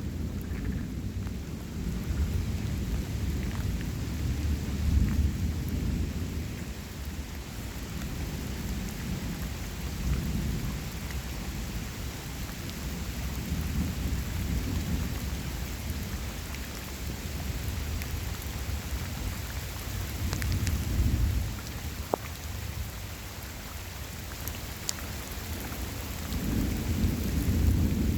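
Steady rain falling during a thunderstorm, with low rolling thunder that swells and fades several times, loudest near the end.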